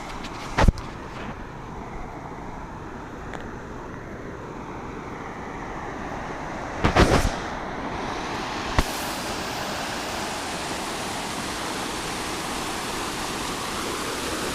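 Water rushing over a low-head dam, a steady roar that grows louder and brighter over the second half, muffled by a waterproof camera case. A few knocks are handled against the camera, the loudest about seven seconds in and a sharp click shortly after.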